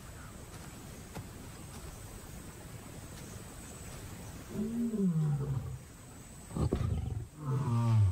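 Lion vocalizing: three loud, deep calls in the second half, the first sliding down in pitch, over a low, steady background.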